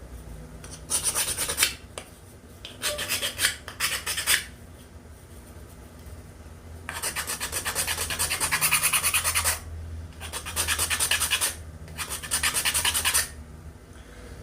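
Hand-abrading a carved wooden scoop: bursts of fast back-and-forth scraping strokes on wood, the longest about three seconds in the middle, with short pauses between bursts.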